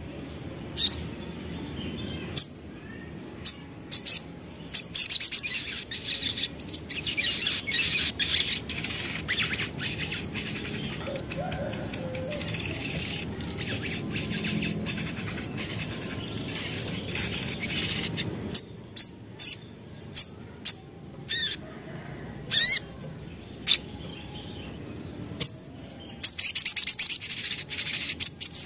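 Sogok ontong (crimson sunbird) singing in breeding condition: bursts of rapid, high-pitched chirping trills, with separate sharp chirps and a few down-slurred notes in between, and a dense fast trill again near the end.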